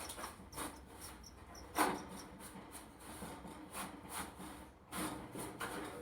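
Irregular scraping and rubbing strokes, a few a second, with one louder scrape about two seconds in.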